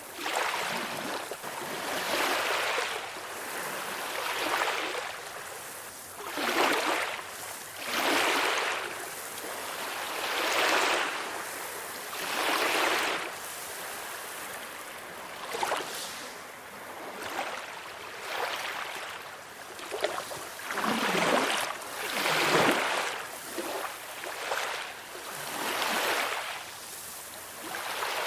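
Small ocean waves washing on a shore, each swell of hiss rising and falling about every two seconds.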